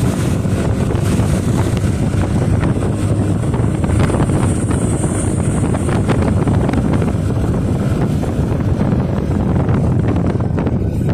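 Steady wind buffeting the microphone of a motorcycle on the move, with road and engine noise underneath.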